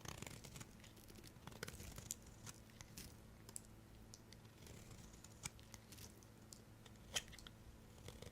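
Knife cutting through soap: faint, crisp clicks and crackles at irregular intervals, busier in the first couple of seconds, with one sharper click about seven seconds in.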